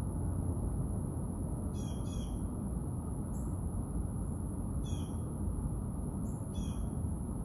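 A bird calls three times, short calls that fall in pitch, with a few faint high chirps between them. Under them run a steady low rumble and a thin, constant high-pitched whine.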